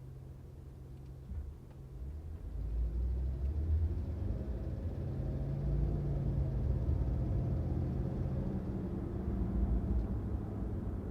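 Car engine and road rumble, a steady low hum that swells into a louder rumble about two seconds in, as from a car accelerating away.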